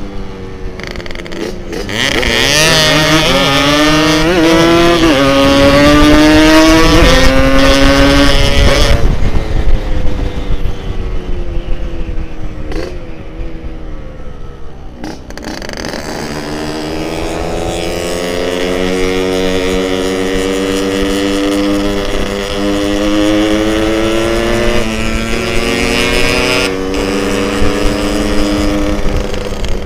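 Yamaha RX King's two-stroke single-cylinder engine pulling hard through the gears under way, its pitch climbing and dropping back at each upshift. It eases off about nine seconds in, then builds up through the gears again from about sixteen seconds in.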